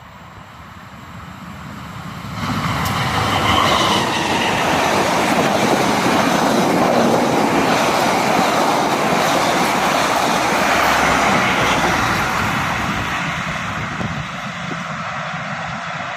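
Passenger train passing close by. The train noise rises sharply about two and a half seconds in, holds, and eases off over the last few seconds.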